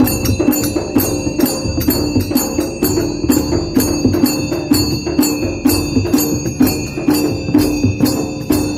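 Dhol drumming in a steady, fast rhythm of about four strokes a second, with jingling metal percussion over it.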